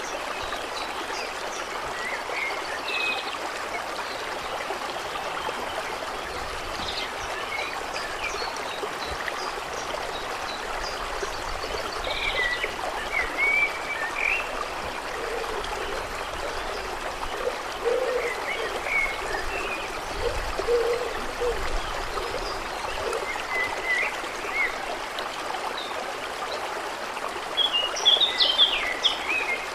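Steady running water with birds chirping now and then, most busily near the end, and a few low frog calls past the middle.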